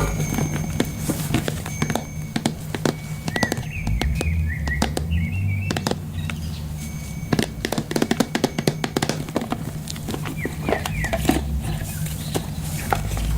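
A deck of self-love cards being shuffled by hand: quick clicks and taps of card edges, with a dense run of clicks a little past the middle. Small birds chirp in the background over a low steady drone.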